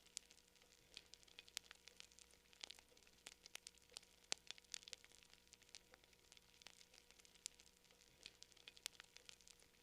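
Campfire crackling faintly: burning wood giving off irregular sharp snaps and pops, several a second, over a low hiss.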